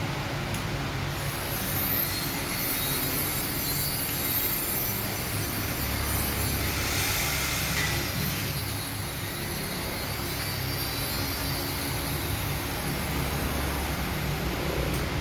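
Vertical straight-knife fabric cutting machine running, with a steady high-pitched whine over a hiss that starts about a second in and stops near the end.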